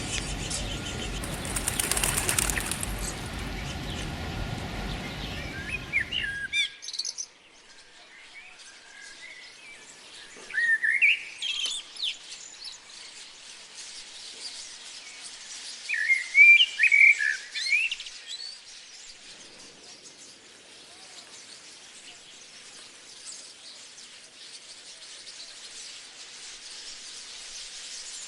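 A rushing noise that cuts off about six seconds in, then a bird calling in two bouts of quick, rising and falling chirps over a quiet outdoor background.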